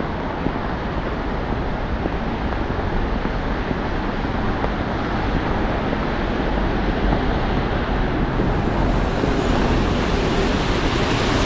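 Steady roar of road traffic on a wet street, with a hiss that grows louder near the end.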